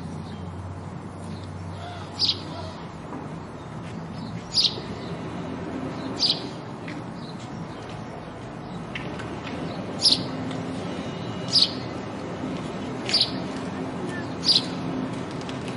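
House sparrow chirping, single short cheeps repeated every couple of seconds, about seven in all, over a steady background hiss.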